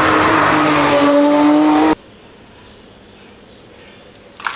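Racing-car engine sound, revving with a slowly rising pitch, that cuts off abruptly about two seconds in. Quiet room tone follows, with a brief click near the end.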